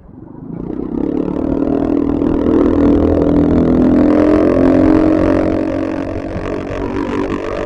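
A motor vehicle engine rising in level over about a second, then running hard and steadily, easing slightly lower in pitch and level near the end.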